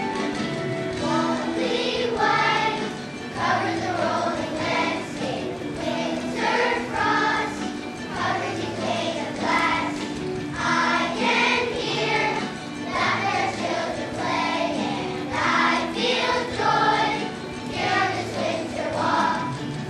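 Children's choir singing a melody together over steady instrumental accompaniment.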